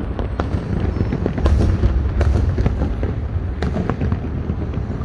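New Year fireworks display: a continuous deep rumble of distant bursts with sharp bangs and crackles several times a second.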